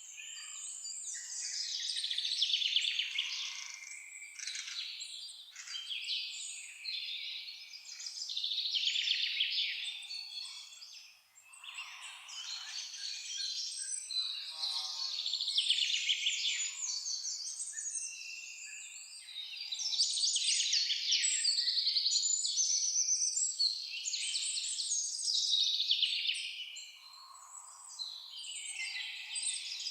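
Forest songbirds singing and calling, many high chirps and rapid trills overlapping one after another with hardly a pause.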